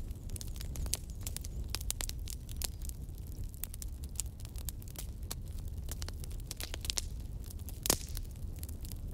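Wood fire burning: a steady low rumble with frequent sharp crackles and snaps, and one louder pop near the end.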